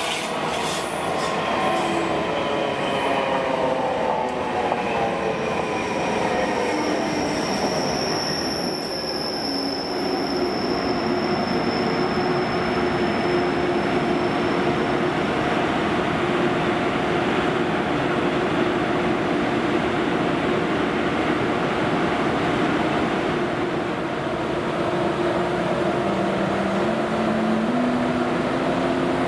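ICE high-speed train at the platform: an electric motor whine falls in pitch over the first several seconds, with a high-pitched squeal of wheels or brakes, then a steady hum. Near the end a whine steps up in pitch.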